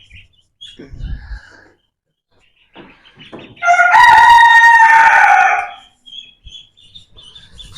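A rooster crowing once, a loud crow of about two seconds that starts a few seconds in.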